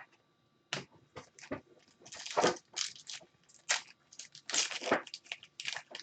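Trading cards and their plastic wrappers and sleeves being handled: an irregular string of short crinkles and rustles.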